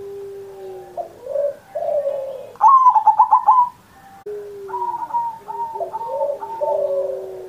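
Zebra dove (perkutut) cooing in long rolling phrases of low falling notes. About two and a half seconds in comes a loud run of quick rapid notes lasting about a second, then a short pause before the cooing resumes.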